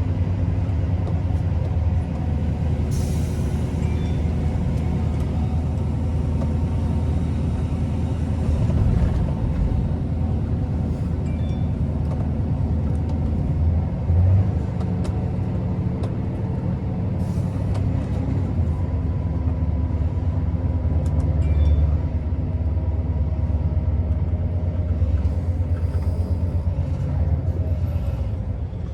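Scania R650's 16-litre V8 diesel running steadily under way, a low even engine note. Short hisses of compressed air from the truck's air system sound a few times.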